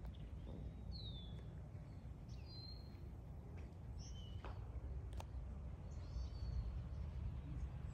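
Outdoor ambience: a few short, high, sliding bird chirps every second or two over a low steady rumble.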